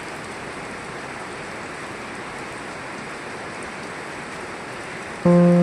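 Steady, even hiss of falling rain or running water. Near the end, music with held notes comes in louder over it.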